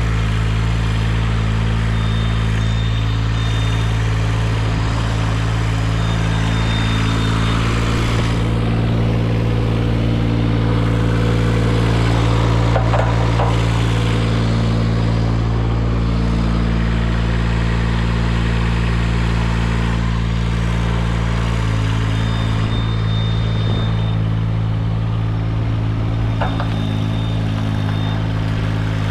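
Engine of a CMC 90-foot tracked aerial lift running steadily, with a faint high-pitched tone sounding in several short spells of a second or two each.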